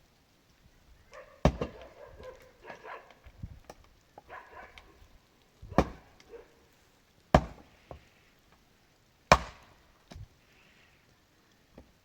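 Heavy blows on wood: four loud strikes about one and a half to two seconds apart, with quieter knocks and scraping between them.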